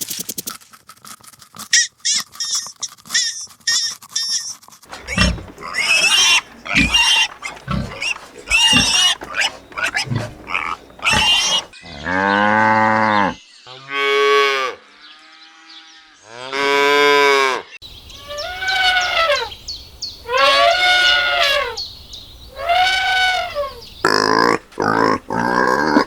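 A run of different animal calls one after another, each a separate pitched call, with rapid clicking sounds at the start and near the end and several long, loud calls in the middle.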